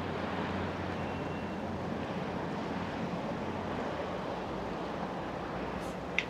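Steady low rumble of distant boat engines and harbour traffic, with a faint drone underneath and a short click near the end.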